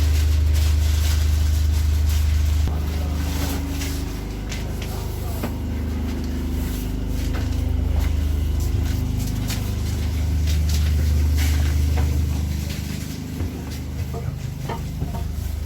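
A standing locomotive giving off a steady low rumble with a faint hum above it, swelling and easing twice, with a few light clicks and knocks.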